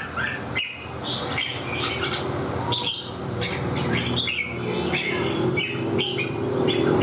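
Red-whiskered bulbul singing: a run of short, quick whistled notes and chirps, over a steady low hum that grows louder near the end.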